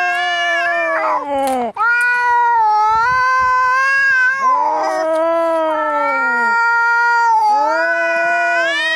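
Angry cats caterwauling in a fight standoff: long, wavering, overlapping yowls that rise and fall in pitch, with only a brief break a little under two seconds in.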